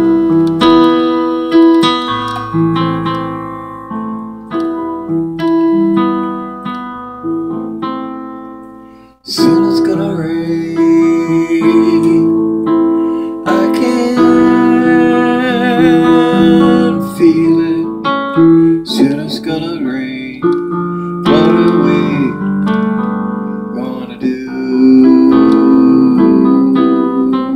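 Piano playing an instrumental introduction, chords ringing and fading, with a brief pause about nine seconds in.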